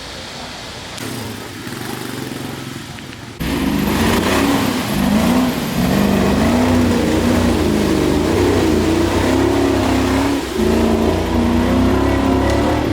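Off-road 4x4 competition vehicle's engine revving hard, its pitch rising and falling as it works for traction. It comes in abruptly loud a few seconds in after a quieter stretch, with a brief dip about two seconds before the end.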